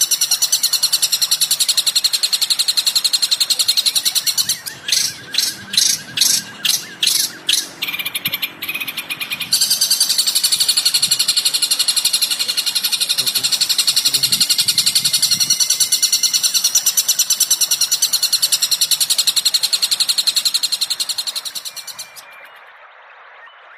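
A small songbird's rapid, high-pitched chattering song, dense and continuous. About five seconds in it breaks into a run of separate sharp notes, about two a second, then runs on continuously again before fading out near the end.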